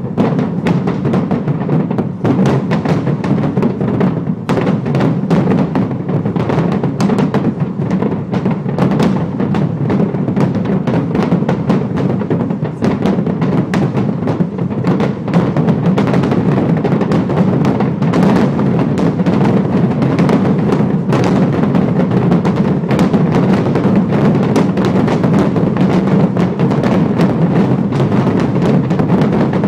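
Fireworks display in a dense, continuous barrage: many overlapping bangs and crackles every second, loud throughout.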